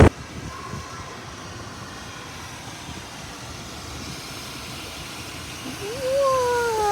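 Steady hiss of rain. Near the end, a long drawn-out cry rises briefly and then slowly falls in pitch.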